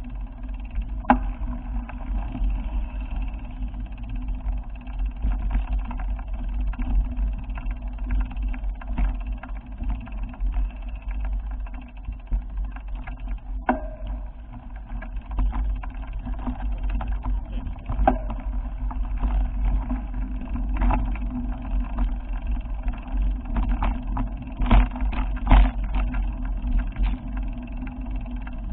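Steady low rumble of a vehicle on the move, with scattered short knocks and rattles, the loudest a few seconds before the end.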